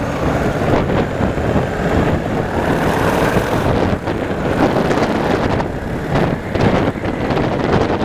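Wind rushing over the microphone of a moving motorcycle, with the bike's engine running underneath.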